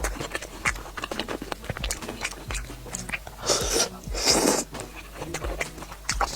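Close-miked eating sounds: chewing and biting with many small wet mouth clicks, and two louder noisy bursts about three and a half and four and a half seconds in.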